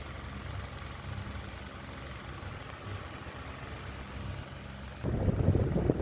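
Electric table fan running, with a steady motor hum and the rush of its airflow. About five seconds in, a much louder rough rumble starts.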